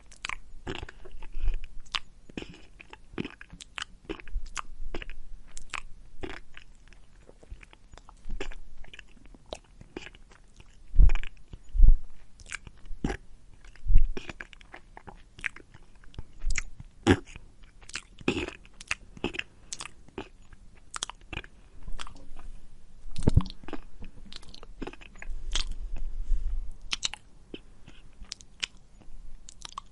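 A pig chewing and crunching food, with irregular crisp crunches and a few louder bites about midway.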